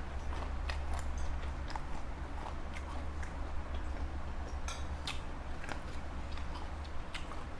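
A person chewing and biting food close to the microphone: scattered small crunches and mouth clicks over a steady low hum.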